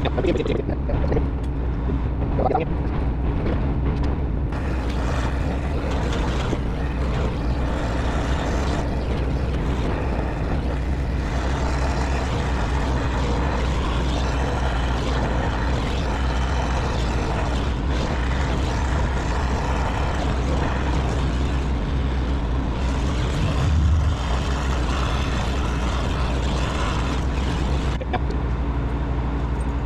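Steady low machine hum under a constant noisy wash, with a brief low swell about 24 seconds in.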